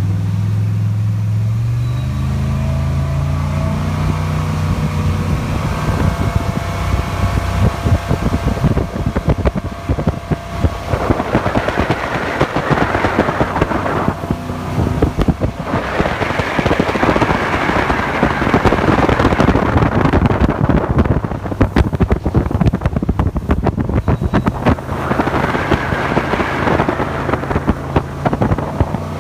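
Jet boat engine running under way, rising in pitch over the first couple of seconds, under a heavy rushing noise that swells and eases three times.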